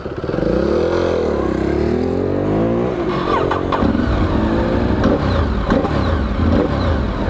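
Motorcycle engines running at a standstill, one blipped so its pitch rises and falls in the first few seconds, with other bikes idling underneath.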